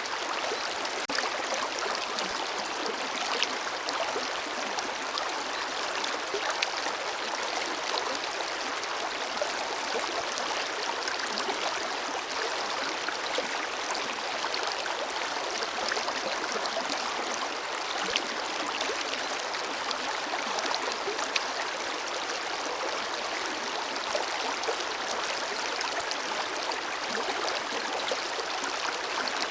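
River water flowing: a steady, even rush with many small splashes and trickles running through it.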